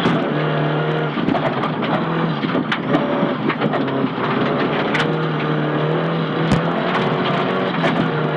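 Nissan Silvia S15 rally car's engine running hard inside the cabin, revs held fairly steady with a few steps in pitch, with scattered sharp knocks and clicks, one louder about six and a half seconds in.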